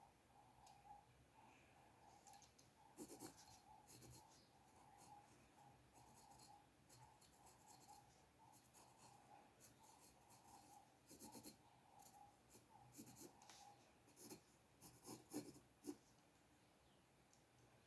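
Faint scratching of a drawing tool moving across paper in short strokes, with a few sharper taps and clicks, once about three seconds in and several more between about eleven and sixteen seconds.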